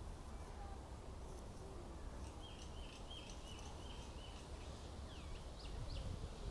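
Bird calls: a run of short repeated chirps starting about two seconds in, then a few quick up-and-down whistled notes near the end, over a low steady background rumble.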